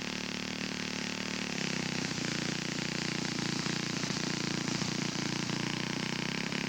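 Large R/C scale model aircraft's four-stroke glow engine, a Laser 150, running steadily on the ground; it picks up speed about one and a half seconds in and holds the higher speed.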